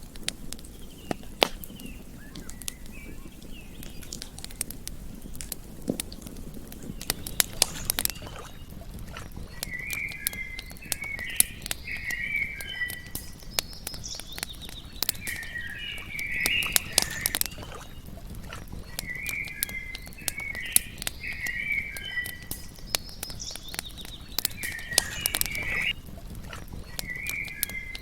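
Campfire crackling with frequent sharp pops, while a chirping animal call repeats in short bursts every few seconds.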